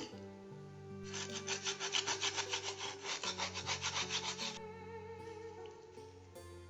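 A hand tool rubbing back and forth on wood, about five quick strokes a second, for a few seconds in the middle, over soft background music.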